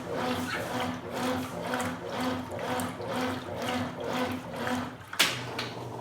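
Consul Supercargo 8 kg (CWL08C) top-load washing machine agitating a load of towels in water in its gentle 'massage' mode: motor hum and water sloshing in short, even strokes about twice a second. About five seconds in there is a sharp click and the strokes stop.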